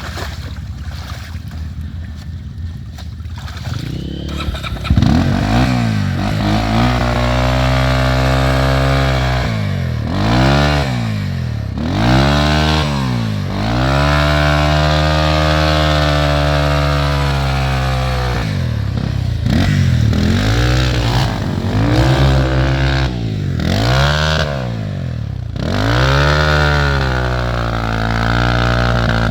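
Dirt bike engine revved hard in neutral, the revs climbing and dropping back over and over, with one long high hold in the middle.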